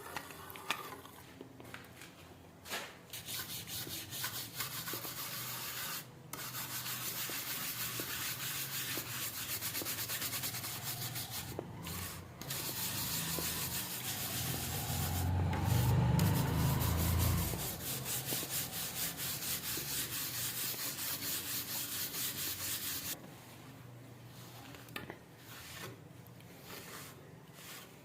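Fast hand sanding of a rusty steel knife blade, with rapid back-and-forth rubbing strokes that pause briefly a few times. A low rumble rises over the strokes just past the middle, and near the end the sanding stops, leaving faint clicks and handling.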